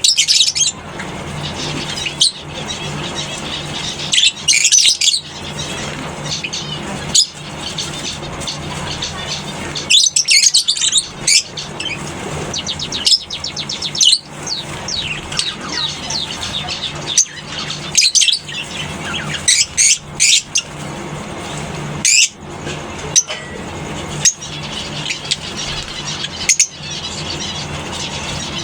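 Lovebirds in a colony aviary chattering in repeated bursts of shrill, high chirps, with short sharp clicks and a steady low hum underneath.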